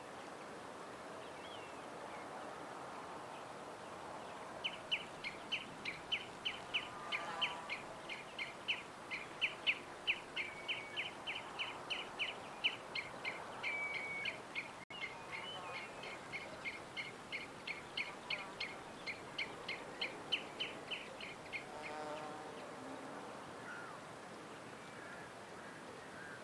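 A bird chirping in a long, quick run of short repeated chirps, about four a second, starting about five seconds in and stopping a few seconds before the end. Fainter, lower calls come in now and then over a steady background hiss of outdoor noise.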